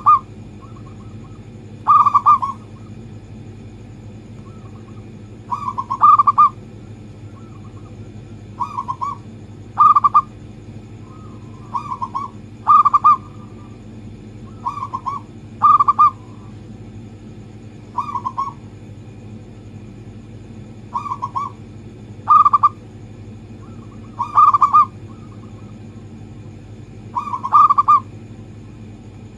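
Zebra dove (local perkutut) cooing: short phrases of quick, clipped coos repeated every two to three seconds, over a steady low hum.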